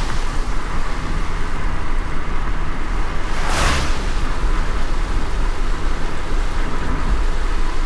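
A car driving in light rain: a steady low road rumble with an even hiss of rain and wet tyres, and one short swish about halfway through.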